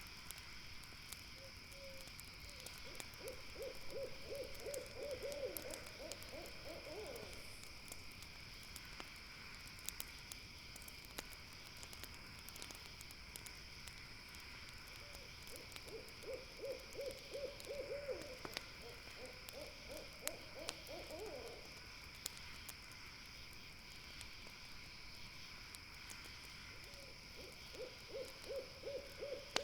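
An owl calling in runs of quick, evenly spaced hoots, each run about five seconds long and rising in pitch at its end, heard three times. A campfire crackles with sharp pops throughout, over a steady high chirring of night insects.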